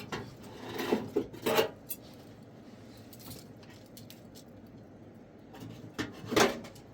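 Hard objects knocking and clinking, like pots and dishes being handled: a cluster of knocks about a second in and another near the end.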